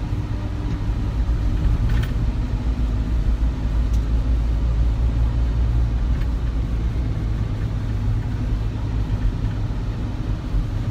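Steady low rumble of a moving road vehicle, engine and road noise, with a couple of faint ticks about two and four seconds in.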